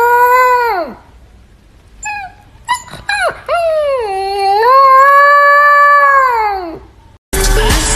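Dog howling: a long held howl that falls away in pitch, a few short yips, then a second long howl that also drops off at its end. Music starts abruptly near the end.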